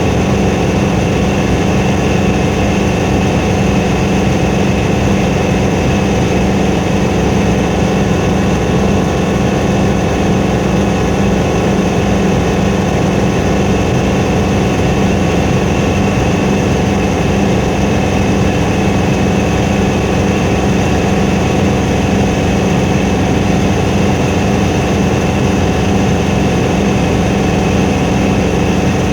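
Helicopter in flight, heard from inside the cabin: the engine and rotor make a loud, steady drone with a strong low hum that does not change.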